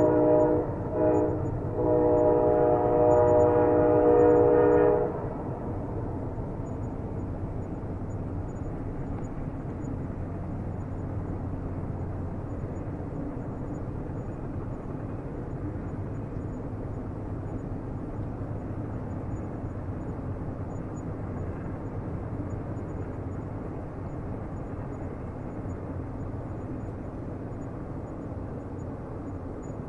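Train horn sounding a steady chord of several tones, briefly broken twice and cutting off about five seconds in. After it comes the steady low rumble of a train running on the rails.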